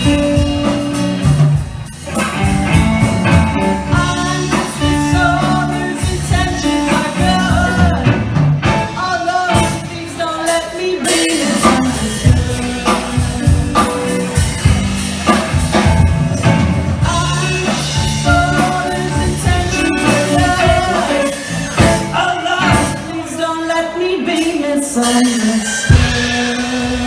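Live rock band playing a blues-rock song with drum kit, bass and melody instruments, with singing over the band.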